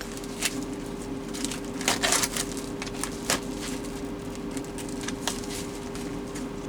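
Plastic food packaging being torn open and handled, with irregular crinkles and rustles, the busiest about two seconds in, over a steady low hum.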